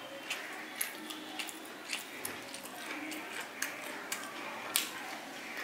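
Chewing a mouthful of steamed chicken momo, heard as irregular sharp mouth clicks and smacks, with one stronger click a little under five seconds in.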